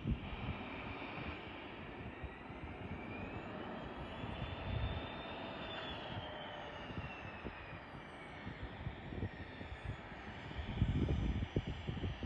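Eclipse 500 very light jet with twin Pratt & Whitney PW610F turbofans flying past, its engine whine rising in pitch as it approaches and falling as it moves away. Wind buffets the microphone with low rumbles, strongest near the end.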